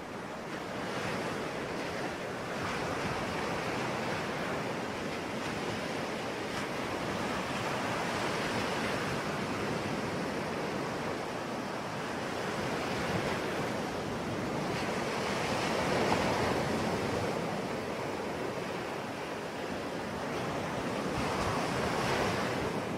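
Sea waves washing onto a shore: continuous surf that swells and eases slowly, rising loudest about two-thirds of the way through and again near the end.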